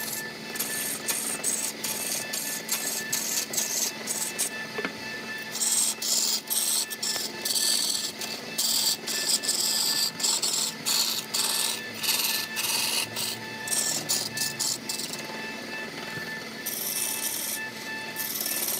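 A large log turning on a wood lathe while a hand-held turning tool cuts into the spinning wood: a rough scraping hiss that comes and goes in irregular bursts as shavings are thrown off, heaviest in the middle stretch. A steady hum runs underneath.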